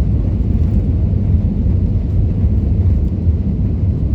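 Steady low rumble of an Airbus A320 heard from inside the passenger cabin: engine and airflow noise with no distinct bangs or changes.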